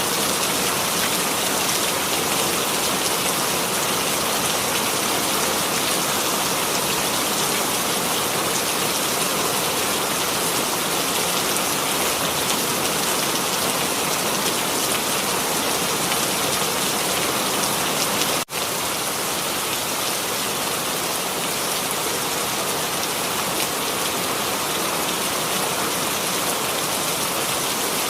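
Steady rain sound effect: an even hiss of rainfall with a split-second dropout about two-thirds of the way through.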